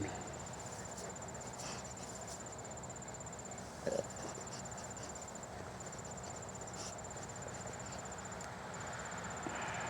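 Insects trilling steadily: a high, finely pulsed trill that breaks off briefly a few times. A single short, louder sound about four seconds in.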